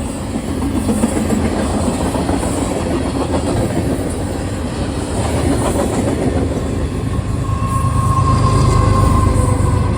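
Union Pacific train rolling past, its railcar wheels clattering over the rail joints in a steady loud rumble. A steady high squeal joins about three-quarters of the way through as the rumble grows louder.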